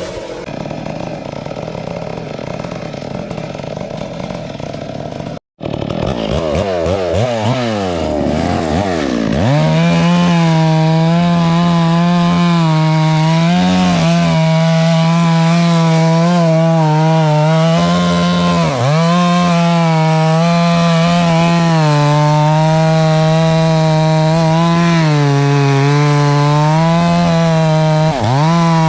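Chainsaw running throughout. For the first five seconds it runs at a lower pitch, then cuts out briefly. It revs up with a swooping pitch and settles into steady high revs, cutting wood, with two short dips in pitch.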